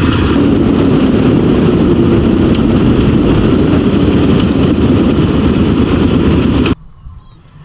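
Yamaha Super Ténéré adventure motorcycle running at road speed, its engine under heavy wind rush. The sound cuts off abruptly near the end, leaving faint insect chirping.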